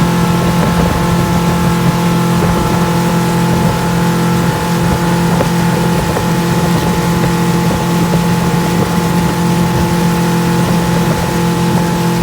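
Motorboat engine running steadily at an even speed, a constant hum with a rough low rumble beneath.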